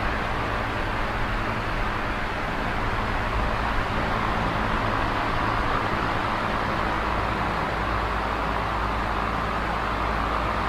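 Small oscillating electric fan running steadily: an even rush of moving air with a low, steady motor hum beneath it.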